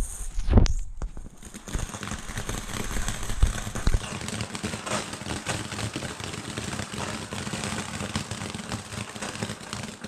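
Small firework fountain (Standard Fireworks 'Luna') burning with a steady hiss full of small rapid pops, after a thump about half a second in; it cuts off suddenly at the end.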